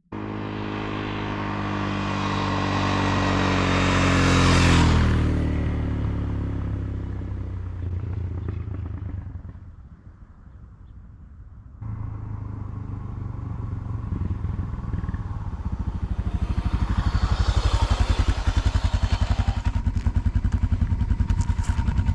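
Suzuki DR650's single-cylinder four-stroke engine running under throttle. It climbs in pitch to a loud peak about five seconds in, then falls away and runs quieter for a few seconds. It comes back suddenly, loud and rapidly pulsing, through the second half.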